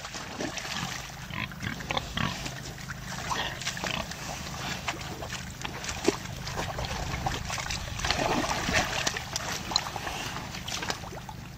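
Domestic pigs grunting in short, irregular sounds, louder about eight seconds in.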